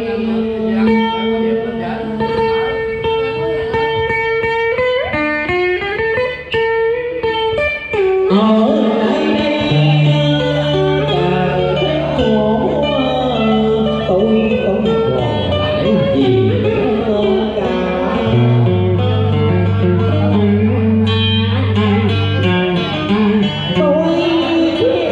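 Cải lương accompaniment music: a guitar plays an instrumental passage of quick plucked runs and bent, sliding notes over long held low notes.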